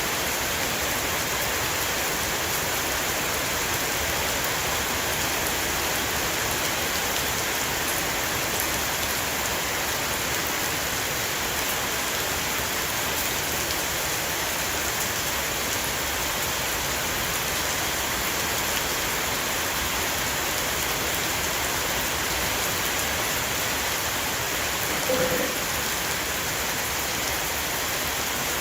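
Steady heavy rain shower falling on a roof, a dense, even patter with no letting up. Near the end a short, louder clear note sounds once over the rain.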